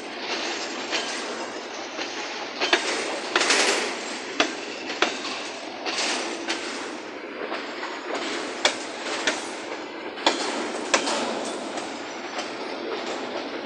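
A freight train of boxcars and covered hopper cars rolling past, steel wheels clacking sharply over rail joints at uneven intervals above a steady rumble and rattle of the wagons.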